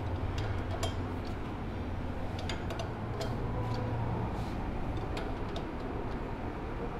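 Irregular light metallic clicks and clinks of a wrench working the motorcycle exhaust pipe's two flange nuts as they are tightened, over a steady low hum.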